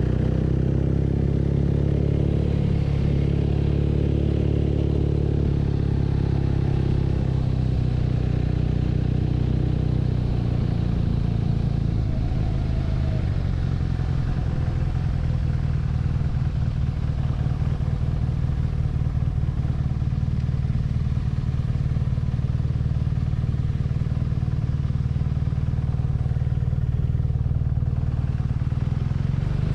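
BMW R nineT's 1170 cc boxer twin running on the move. Its pitch drops gradually over the first ten seconds or so as the revs come down, then it runs at steady, lower revs.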